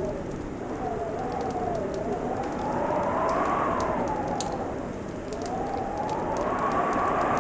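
Wood fire crackling in a fireplace, with small sharp pops scattered throughout, under a steady wintry whoosh that slowly swells and falls in pitch every few seconds.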